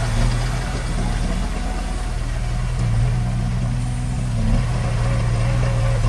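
Heavy diesel engine of earthmoving machinery running steadily. Its note sags for a moment about a second in and picks back up before three seconds.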